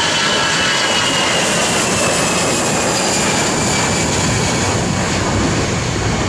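Jet airliner passing at close range: a loud engine rush with a high whine that slides slowly down in pitch.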